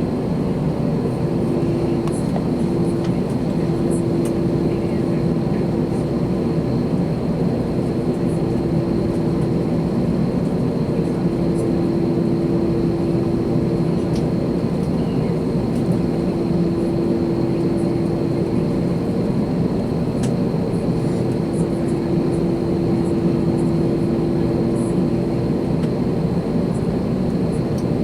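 Airbus A321 jet engines and airflow heard inside the passenger cabin as a steady, even drone with a sustained hum.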